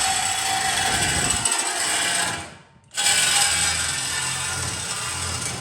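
Power tool cutting through a truck's steel exhaust pipe: a steady metallic rasping that stops briefly about halfway, then starts again.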